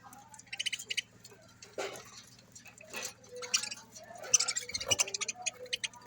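Budgerigars chattering: short bursts of rapid, high, clicky chirps, one about half a second in and a denser run after the middle.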